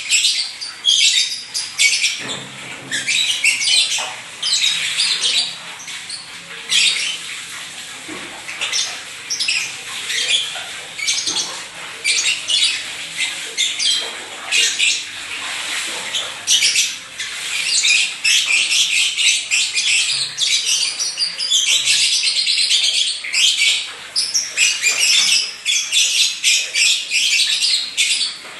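Lovebird chattering without pause: rapid strings of high chirps and squawks, the constant 'gacor' singing of a bird in full voice.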